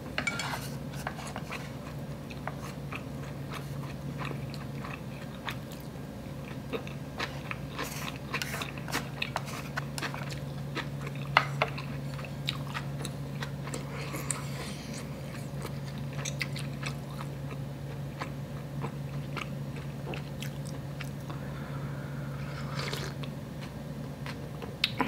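Close-miked chewing of a mouthful of inari sushi (sweetened fried tofu pouch stuffed with rice), with many small wet mouth clicks scattered throughout over a steady low hum.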